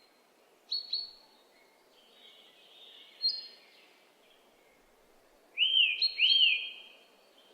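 Small birds chirping: a couple of short high chirps about a second in, then two louder arching chirps, rising and falling, near the end.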